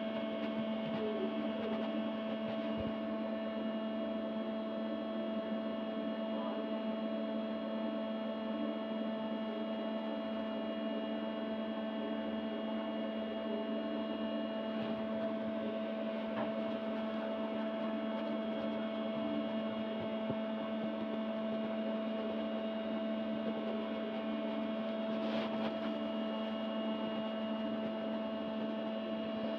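Steady, unchanging hum made of several held tones, with a few faint clicks.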